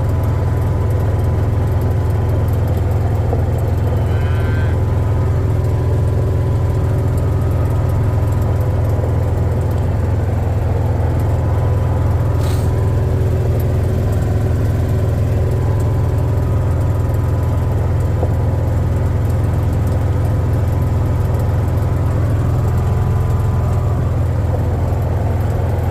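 Vehicle driving at a steady pace, heard from inside the cab: a constant low engine and road hum, with a single click about halfway through.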